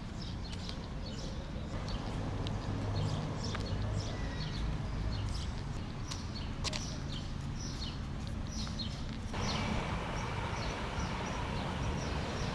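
Small birds chirping: many short, high, falling notes repeated again and again over a steady low rumble. About nine seconds in, a louder rushing hiss comes up suddenly and carries on.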